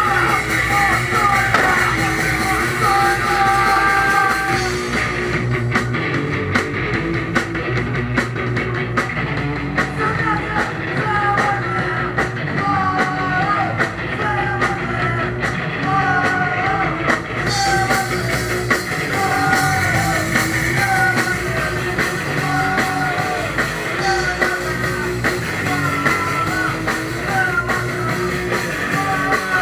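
Live rock band playing loud, with singing over guitar, bass and drums. The high end drops away for about twelve seconds in the middle, then the full band comes back in.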